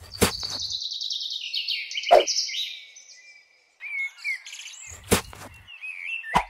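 Birdsong: a fast trill of notes falling in pitch over about three seconds, then scattered short chirps. Four sharp taps or knocks cut across it, the loudest about two seconds in.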